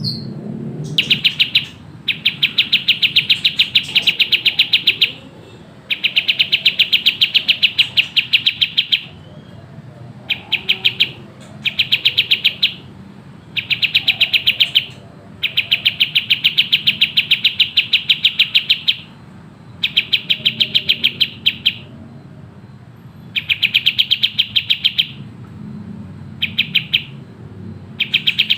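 Kapas tembak (a triller) singing loud bouts of fast, closely spaced repeated notes, each bout lasting one to four seconds with short pauses between.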